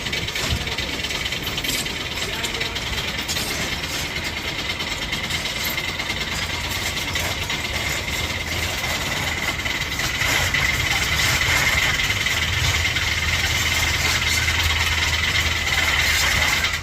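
Heavy machinery running steadily, with a held high whine over a deep engine drone that grows louder about ten seconds in.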